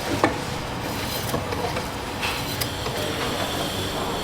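Busy street-side noodle shop ambience: a steady wash of traffic-like background noise, with a few sharp clinks or knocks, the loudest about a quarter second in.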